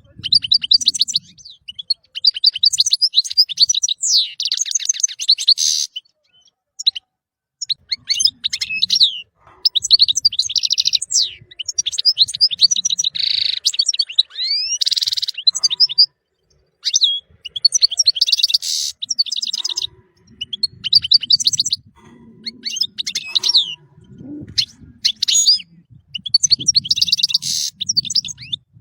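European goldfinch singing: bursts of fast, twittering trills and sweeping notes, broken by a few short pauses.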